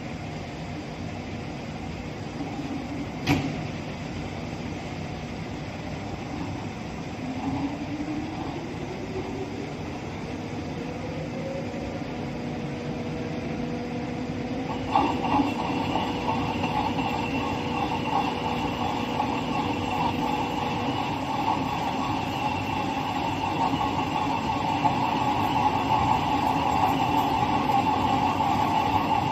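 CNC pipe end beveling machine running on an 89 mm pipe: a sharp click a few seconds in, then a motor whine that rises in pitch and holds steady. About halfway through, a louder, steady metal-cutting noise sets in as the tool bevels the pipe end, and it keeps running to the end.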